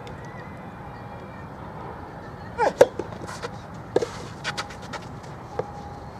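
A few sharp pops, typical of a soft rubber soft-tennis ball struck with a racket, over a steady hum of crowd and venue ambience. A brief shout comes just before the first pop.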